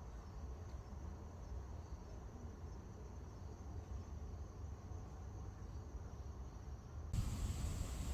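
Faint, steady insect chirring over a low rumble in a forest. About seven seconds in it cuts abruptly to a louder, even hiss.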